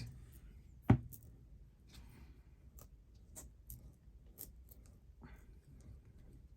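Paper and small crafting tools handled on a table: a sharp knock about a second in, then scattered light ticks and rustles.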